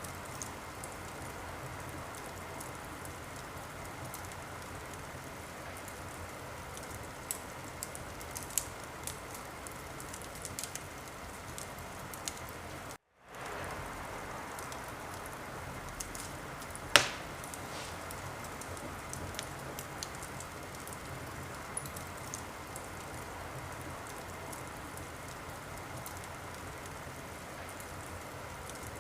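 Wood fire burning in a fireplace: a steady hiss with scattered small crackles and one louder pop about seventeen seconds in. The sound cuts out for a moment about thirteen seconds in.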